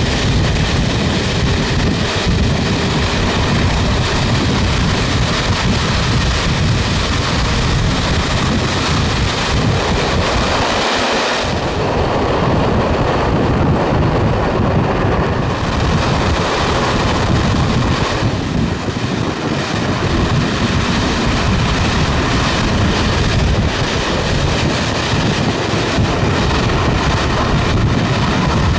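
Steady running noise of a steam-hauled passenger train at speed, heard from an open coach window: wheels on the rails with wind on the microphone. About a third of the way in the sound turns duller as the train runs into a tunnel.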